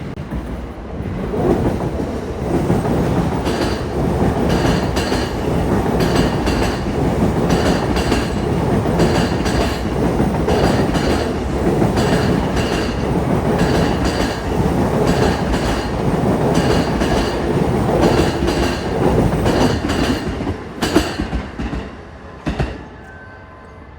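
Electric commuter train running through on the Sobu Line, its wheels clacking loudly over the rail joints in a steady, repeating rhythm. The passage fades about 21 seconds in, with a last couple of knocks.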